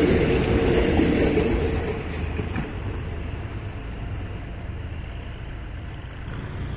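Passenger coaches of a State Railway of Thailand train rolling past on the track, the low rumble of wheels on rail dying away as the last coach moves off about two seconds in.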